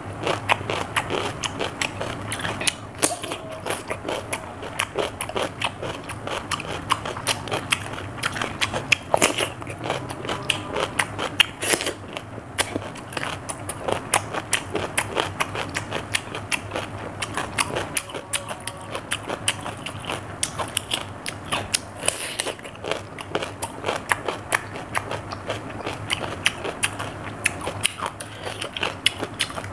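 A person biting and chewing raw cucumber: a dense run of crisp crunching clicks.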